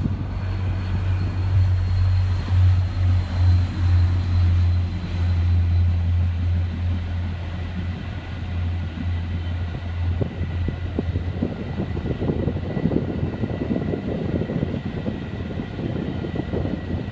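A diesel-hauled passenger train going by: a deep steady locomotive engine drone through the first half fades out, giving way to the rattle and clatter of the passenger cars rolling over the rails, with a thin steady high whine.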